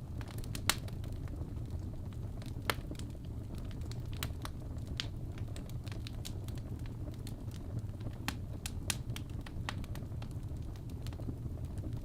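Wood fire burning in a fireplace: logs crackling with irregular sharp pops, about one or two a second, over a low steady rumble of flame.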